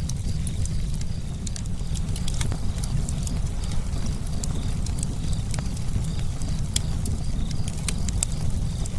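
Campfire burning, with frequent sharp, irregular crackles and pops from the burning wood over a steady low rumble.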